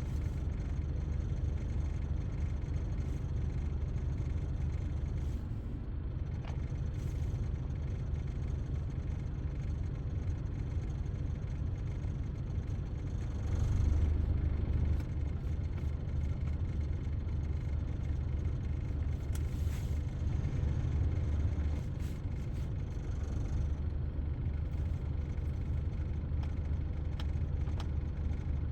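Honda XL250S single-cylinder four-stroke motorcycle engine running with a steady low rumble, briefly louder about halfway through.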